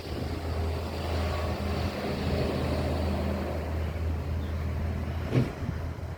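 Passing road traffic: a motor vehicle's low engine hum holds steadily over wind and tyre noise, with a single sharp knock about five seconds in.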